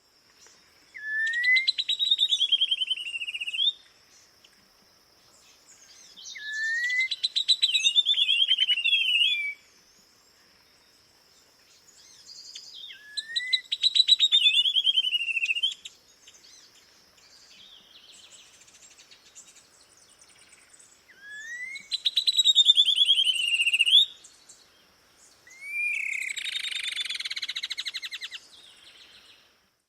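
A songbird sings the same song five times, about every six seconds. Each song starts with a short rising whistle and runs into a fast, high, slightly falling trill. A faint steady high-pitched tone runs underneath.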